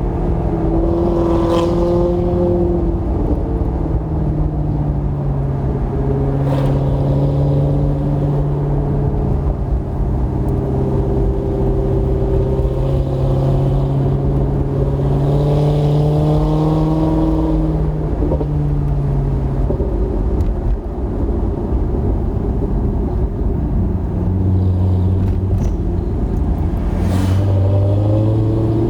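2008 Maserati GranTurismo's 4.2-litre V8 running through a Kreissieg aftermarket exhaust. The engine note holds fairly steady with slow rises and falls, drops in pitch about 18 seconds in, and sits lower near the end.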